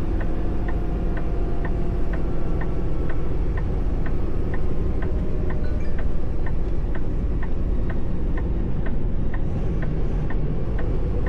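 Turn-signal indicator ticking steadily at about two ticks a second over the steady low rumble of the semi truck's engine and road noise in the cab.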